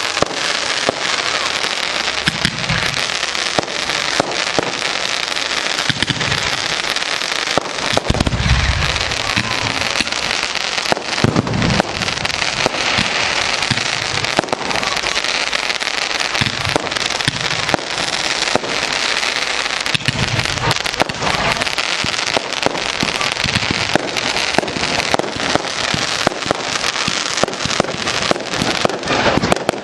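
Fireworks display: a dense, continuous barrage of sharp cracks and crackling from bursting shells, with a couple of deeper booms about eight and eleven seconds in.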